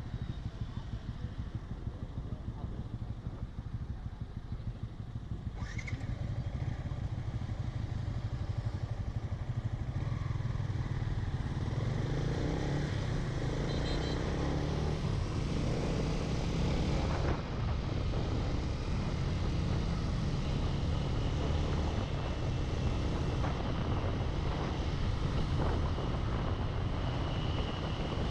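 Yamaha Sniper 155 VVA motorcycle's single-cylinder engine running steadily on the road, growing louder about five seconds in and then holding.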